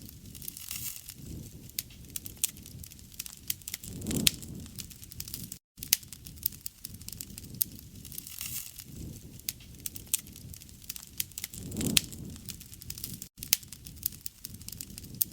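Wood fire crackling: a steady low rush of burning with frequent sharp pops and snaps, swelling louder twice. Two very short silent gaps break it.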